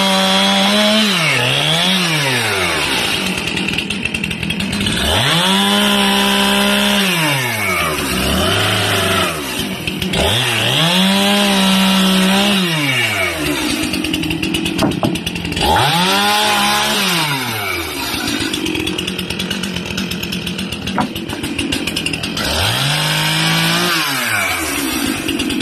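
Two-stroke chainsaw engine revved up to full throttle, held there a second or two, then let fall back, about five times over.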